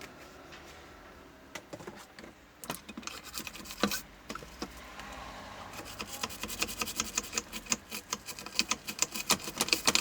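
A circuit board being scrubbed clean with rapid, scratchy rubbing strokes. There are a few scattered strokes at first, and they become fast and continuous from about halfway.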